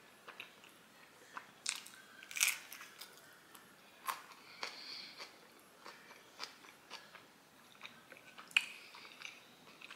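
A person chewing a mouthful of soft tortilla taco, with wet mouth clicks and sharper bites and crunches; the loudest come about two and a half seconds in and again near the end.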